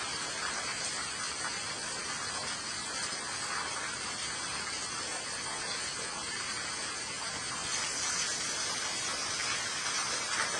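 Steady rain falling, an even hiss that gets a little louder about eight seconds in.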